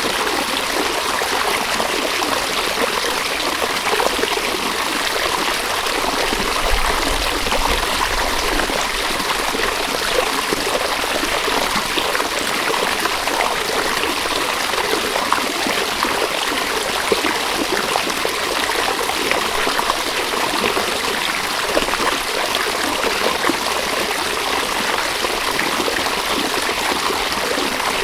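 River water flowing: a steady, even rush of running water with no change or break.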